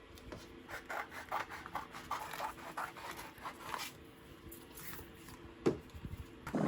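A run of short, irregular scratching and rubbing strokes for a few seconds, then a single knock about a second before the end.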